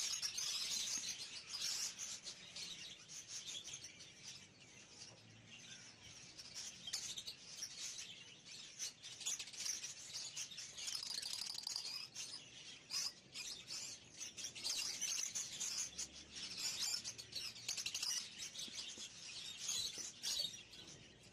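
Many small caged birds chirping and twittering together in a dense, continuous chorus, with scattered short clicks.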